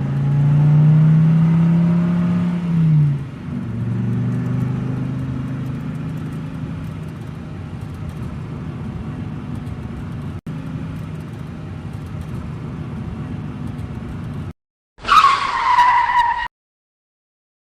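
Car engine sound running at a steady pitch, dipping briefly about three seconds in, then droning on. It stops, followed by a short high screech falling in pitch.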